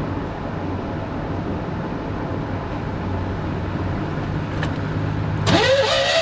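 A 1983 Chevy S10 Blazer's V6 engine cranking over on the starter with the spark plugs out, running a compression test on one cylinder. Background music comes in near the end.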